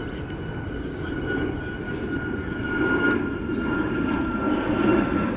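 Airplane engine noise: a steady rumble with a thin high whine that slowly sinks in pitch.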